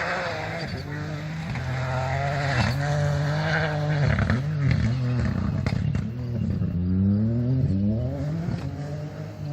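Rally car engine revving hard on a special stage, its pitch dropping and climbing again several times through lifts and gear changes, then rising steadily as the car accelerates about seven seconds in.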